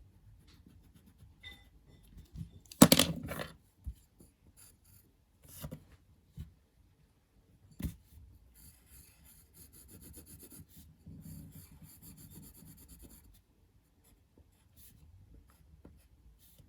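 Drawing strokes scratching on paper, with scattered light clicks and a louder knock about three seconds in.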